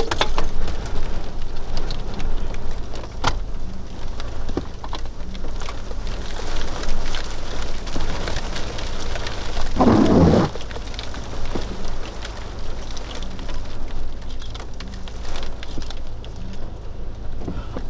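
Thunderstorm rain with a steady low wind rumble, a few sharp clicks, and a louder short rush of noise about ten seconds in.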